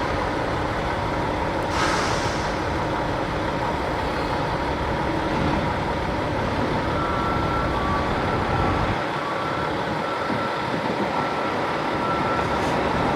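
Forklift engine running steadily, with a short hiss of air about two seconds in. From about halfway, a faint reversing alarm beeps over and over. The low rumble eases after about nine seconds.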